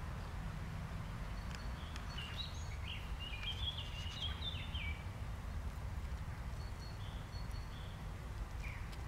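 Outdoor meadow ambience: a low steady rumble with a small bird singing a quick run of high chirping notes about two to five seconds in, and a few faint chirps near the end.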